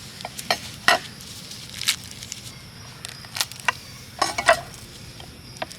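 Camp cookware and utensils being handled: irregular sharp clicks and light clinks of a spoon and lid against metal pots over a low steady background.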